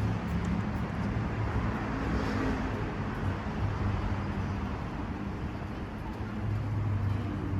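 Road traffic noise: a steady rush of passing vehicles with a low engine hum underneath.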